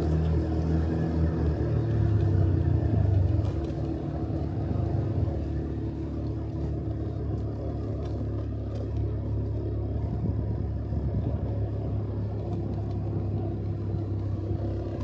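Motorcycle engine running with road and wind noise, louder for the first three seconds or so and then settling to a steadier, slightly lower level.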